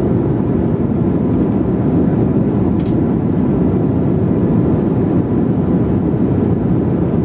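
Steady low rumble of an airplane cabin in flight: engine and airflow noise.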